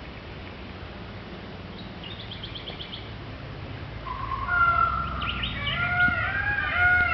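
Bird calls: a short, rapid trill about two seconds in, then a loud run of repeated calls that each rise and fall in pitch, starting a little past halfway.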